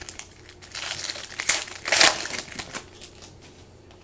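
Crinkling of a trading-card pack wrapper being handled and opened, an irregular run of crackles loudest about halfway through that dies away near the end.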